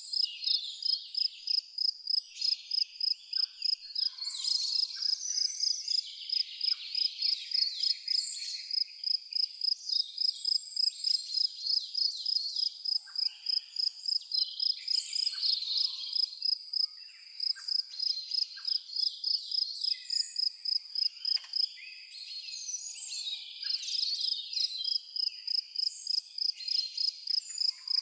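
A cricket chirping in a steady, rapid series of high, even-pitched pulses, pausing briefly twice. Birds chirp and call irregularly over it.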